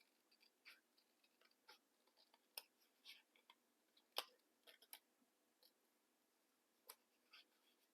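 Small scissors cutting paper: faint, irregular snips and clicks with short paper rustles, the sharpest snip about four seconds in.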